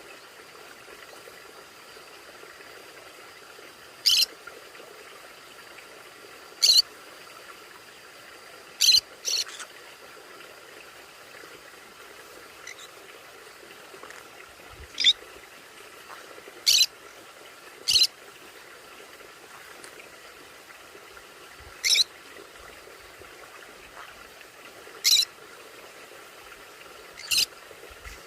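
Conure giving short, shrill single calls, about ten of them at uneven intervals of roughly two to three seconds, once two in quick succession, over a faint steady background hum.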